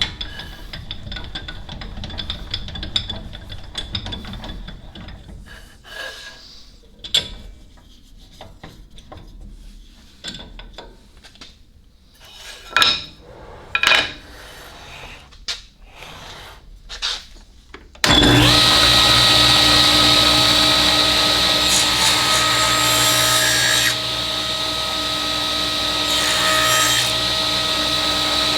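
Clicks and knocks of a workpiece and fence being handled on a shaper. About 18 seconds in, the Delta shaper is switched on, comes up to speed almost at once, and runs with a loud, steady, high whine.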